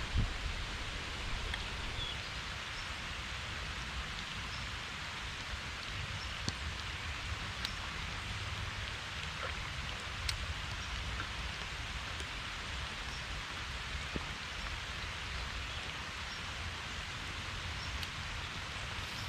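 Heavy rain falling steadily, with scattered sharp ticks of single drops striking close by and a low steady rumble underneath.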